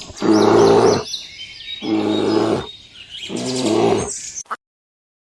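A large animal roaring three times, each roar about a second long, with birds chirping high above in the background; the sound cuts off abruptly near the end.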